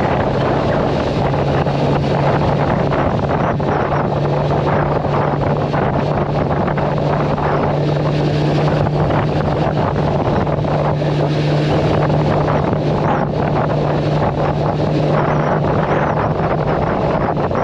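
Yamaha R1-Z's two-stroke parallel-twin engine running at a steady pitch while riding at a constant speed, with heavy wind rush on the microphone.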